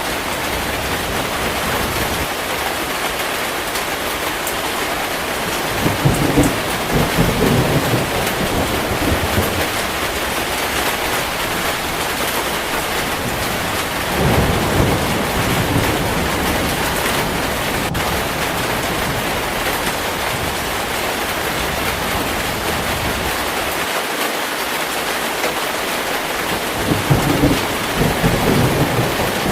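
Heavy rain falling steadily, with thunder rumbling three times: about six seconds in, again around fourteen seconds, and near the end.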